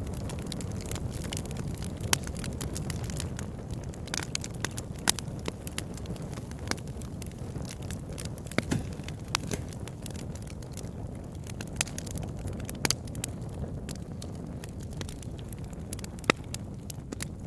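Campfire burning, with a steady low rumble of flames and irregular sharp crackles and pops from the wood, a few of them loud.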